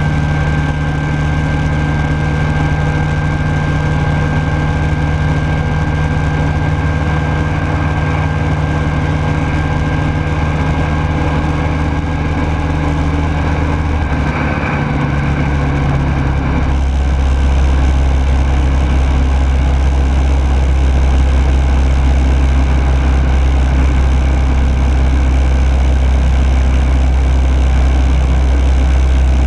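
Rotax 912S four-cylinder engine and propeller of a Rans Coyote S6 ultralight droning steadily in flight, heard from on board. About halfway through the note shifts, and the low drone is a little louder after that.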